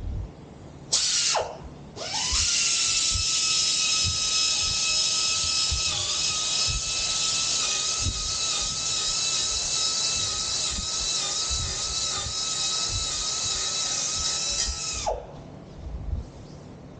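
A small high-speed electric power tool: a short trigger burst that winds down, then a steady high whine for about thirteen seconds that winds down near the end.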